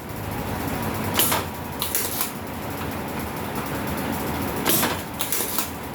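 Removal of capacitors from an amplifier circuit board: a steady whirring noise with a low hum, broken by about five sharp clicks or knocks at uneven intervals.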